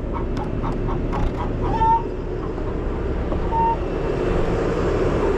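Skid steer's diesel engine running steadily at idle, with chickens clucking in the first couple of seconds and giving short calls about two and three and a half seconds in.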